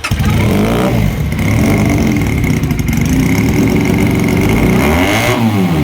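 Benelli 300 motorcycle's twin-cylinder engine running loud and being revved, its pitch dipping and climbing again near the end.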